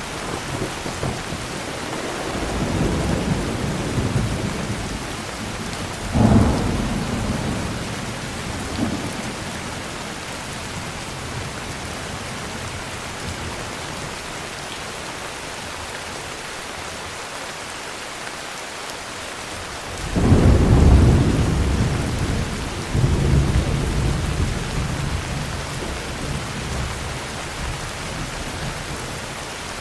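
Steady heavy rain with thunder: a rumble a few seconds in, a sharp clap about six seconds in, and a sudden loud clap at about twenty seconds that rolls into long rumbles and fades.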